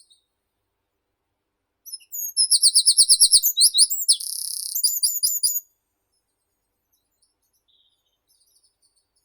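A songbird singing one loud phrase of about three and a half seconds: a quick run of repeated high notes, then a buzzy stretch, ending in a few short down-slurred notes.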